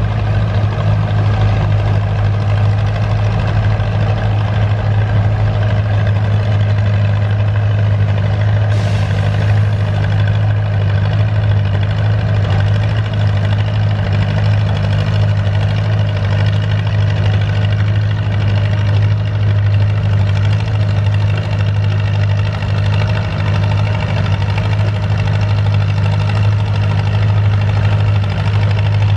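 Antique farm tractor engine running steadily at a constant pitch, a low throbbing tone with no revving.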